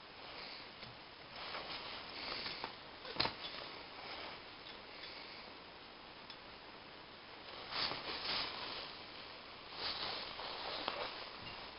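Intermittent scraping and rustling of hand work on a car engine's cylinder head, with one sharp click about three seconds in.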